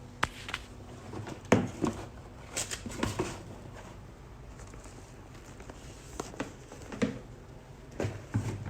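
Scattered light knocks, clicks and rustling of things being handled, over a steady low hum.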